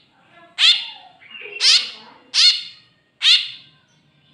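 A hungry tame 'kep kep babi' bird chick giving begging calls: four short, shrill calls with quiet gaps of under a second between them.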